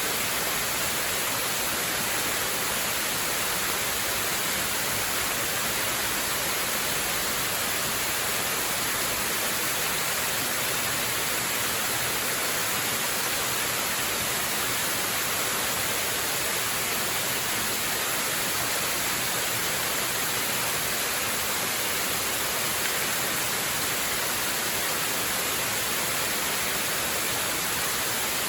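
Waterfall rushing steadily: an even, unchanging hiss of falling water, strongest in the upper range.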